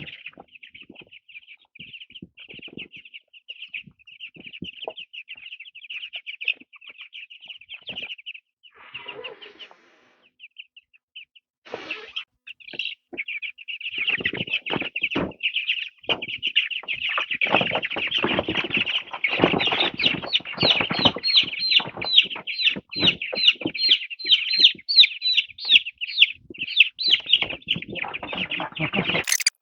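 Chickens peeping non-stop in a high, rapid chatter that grows louder about halfway through, mixed with wings flapping and scuffling as a bird is held to have its wings clipped.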